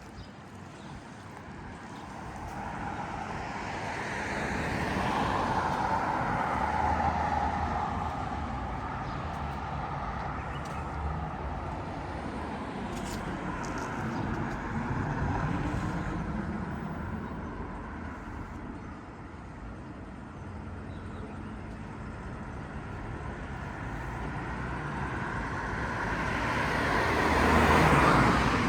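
Road traffic: cars passing one after another, each one swelling and fading away, with the loudest passing close by near the end.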